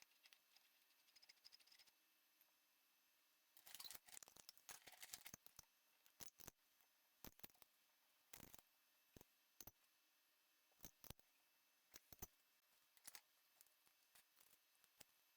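Faint clicks and light rattling of small parts being handled during machine assembly: a quick flurry about four seconds in, then scattered single clicks.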